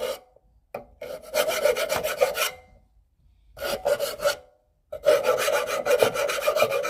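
Rasping, scraping noise in three long bursts with short silences between them.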